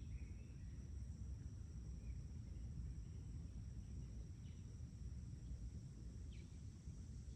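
Outdoor ambience: a steady, high insect drone made of two even tones, a few brief bird chirps scattered through it, and a low rumble underneath.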